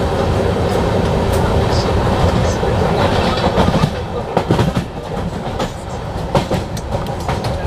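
Passenger train running at speed, heard from aboard the coach: a steady rumble of wheels on track with sharp clicks as the wheels cross rail joints.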